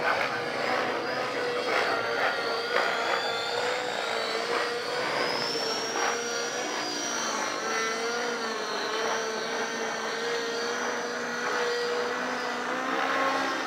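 Radio-controlled helicopter flying 3D aerobatics: a steady rotor drone with a high motor whine that climbs in pitch a few seconds in and then holds.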